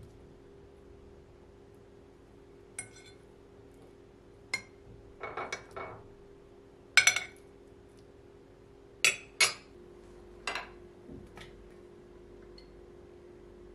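Dishes and cutlery being handled, with a string of separate clinks and knocks of crockery and metal, loudest about seven and nine seconds in. A steady low hum runs underneath.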